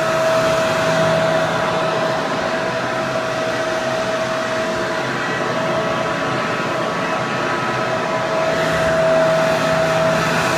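Hair dryer running steadily: a continuous rush of air with a steady motor whine and a low hum.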